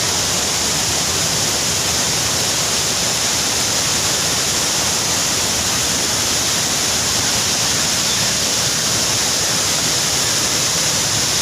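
Waterfall: water pouring and splashing in a steady, loud rush, heaviest in the hiss.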